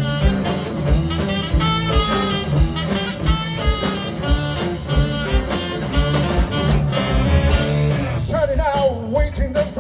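A band playing an upbeat instrumental passage with a steady beat of bass and drums. About eight seconds in the full band drops away, leaving a single wavering melodic line.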